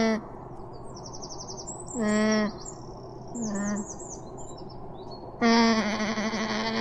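Alpaca calling in steady, pitched cries: a half-second call about two seconds in, a shorter one a second later, then a long wavering call beginning near the end. Small birds chirp faintly in the background.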